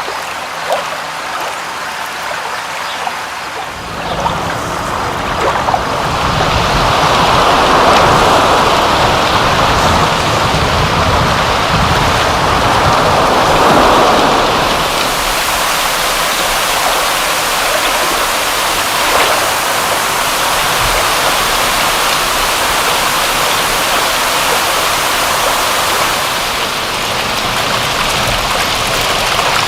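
Steady rushing water, rain and running water, that fills out about four seconds in and turns brighter and hissier around the middle.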